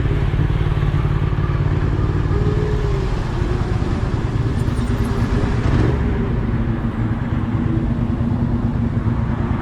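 Motorcycle engine running steadily under a low rumble, its note changing about halfway through.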